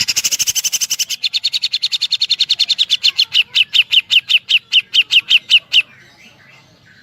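Grey-cheeked bulbul (cucak jenggot) giving a woodpecker-like rapid-fire call: a long series of sharp, down-slurred chirps, very fast at first and gradually slowing to about four a second before stopping abruptly about six seconds in.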